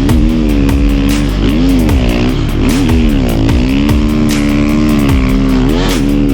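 Snow bike engine revving, its pitch rising and falling over and over as the throttle is worked on and off.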